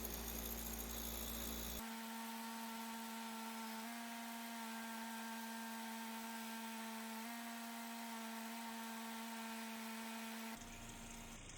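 A small electric motor, likely a power tool, running steadily with an even hum; the sound changes abruptly about two seconds in and again near the end.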